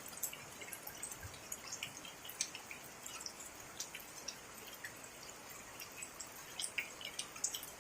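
Rain falling, a steady soft hiss with irregular drips ticking down unevenly, several a second.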